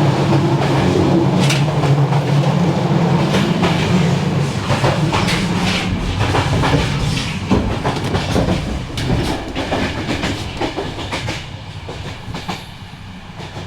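Passenger train running, heard from inside: a loud rumble of wheels on the rails with repeated clattering knocks, as between carriages. It grows quieter over the last few seconds.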